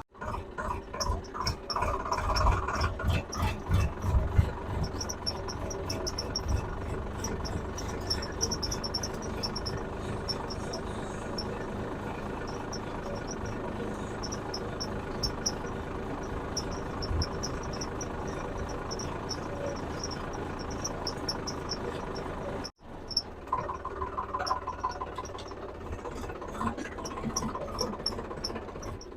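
Tractor engine running steadily under load in second gear, pulling a furrowing implement through the soil. A rapid high chirping repeats throughout, and the sound cuts out for an instant about three-quarters of the way through.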